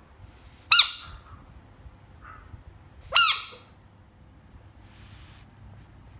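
A frog screaming twice: two short, shrill cries about two and a half seconds apart, the frog's distress scream. A short high hiss follows near the end.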